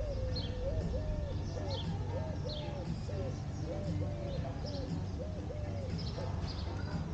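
Birds calling: a low hooting note repeated in short groups, about two notes a second, with high falling chirps from another bird, over a steady low rumble.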